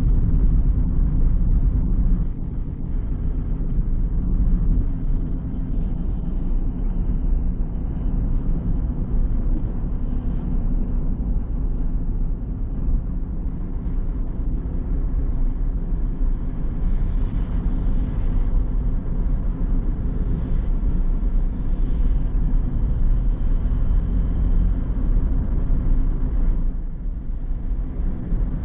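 A car driving along a road: a steady low rumble of engine and tyre noise, easing briefly near the end.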